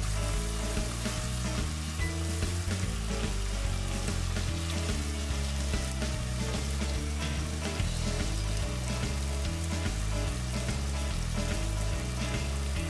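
Chicken pieces sizzling and crackling in oil in a nonstick frying pan, stirred with a wooden spatula. A music track with a bass line plays quietly underneath.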